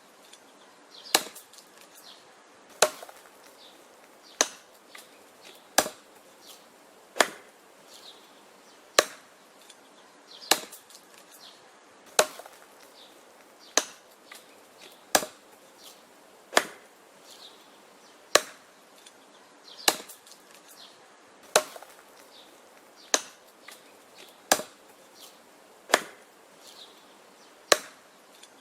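Wood being chopped: sharp chopping strikes at a steady pace, about one every second and a half, with faint small knocks between them.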